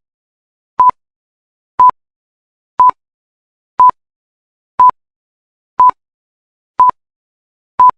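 Electronic countdown timer beeping: short, identical single-pitch beeps, one each second, eight in all.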